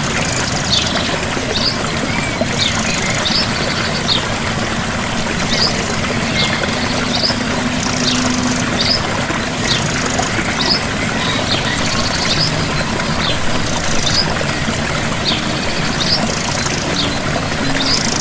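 Steady rush of a gentle waterfall, with a small bird calling over it in short high chirps about once a second.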